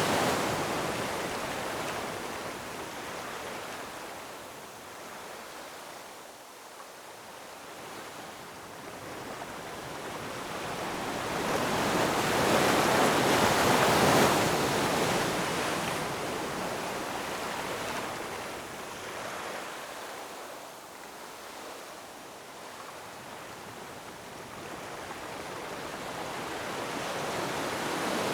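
Ocean waves breaking and washing ashore: a steady rush of surf that swells to a crest about halfway through, falls away, and builds again near the end.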